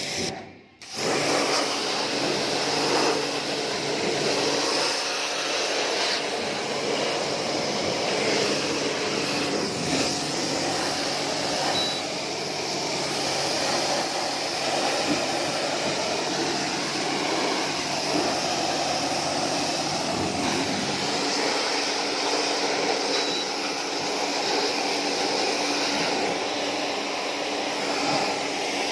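Electric pressure washer running steadily, its water jet spraying an air conditioner's indoor unit during cleaning. It starts about a second in.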